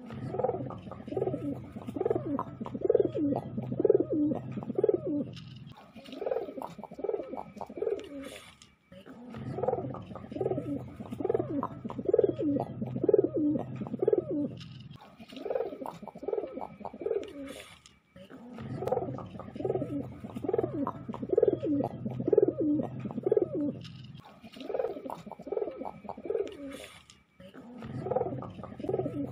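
Domestic pigeons cooing, a run of rolling coos several a second, in bouts of a few seconds with short pauses between them.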